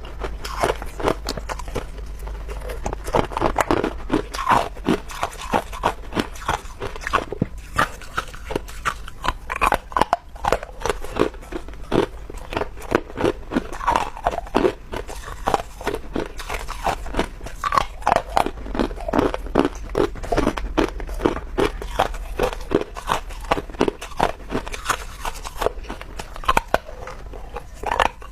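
Clear ice chunks being bitten and chewed close to the microphone: a dense run of sharp crunches and cracks, several a second, over a low steady hum.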